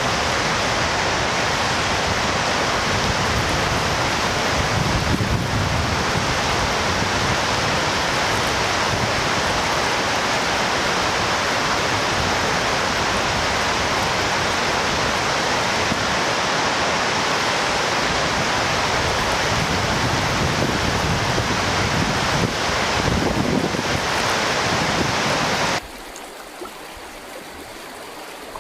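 River water flowing in a steady, loud rush. Near the end it drops suddenly to a quieter, thinner flow.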